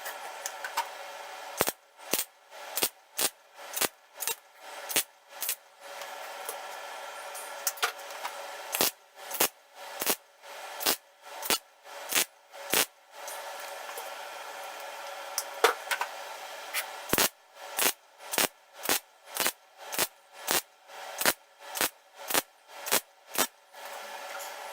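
Welder stitch-welding a thin sheet-metal panel in short tacks, one after another at about two a second, in runs broken by pauses. A steady hum carries on through the pauses.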